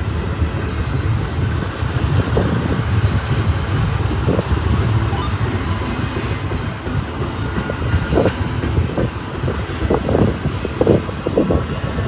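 A freight train running past on the mainline, a steady low rumble of locomotives and rolling cars. Wind gusts on the microphone add irregular surges near the end.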